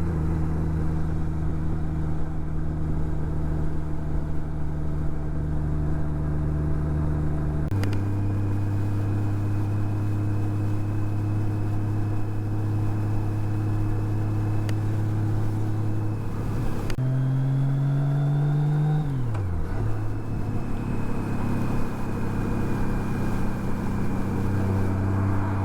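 2006 Honda Gold Wing GL1800's flat-six engine running steadily under way, with a steady rushing noise beneath. Its note drops abruptly about eight seconds in, changes again around seventeen seconds, then falls away over a second or two before settling steady again.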